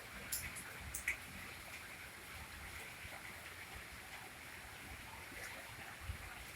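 Heavy rain falling steadily, an even hiss of drops and splashing, with a couple of sharp ticks of drips in the first second or so.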